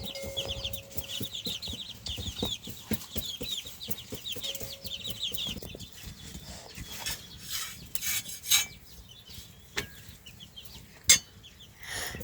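Chickens cheeping in rapid high chirps for about the first five seconds, with scattered knocks. In the second half the chirping stops and scraping and clattering sounds take over, with one sharp click near the end.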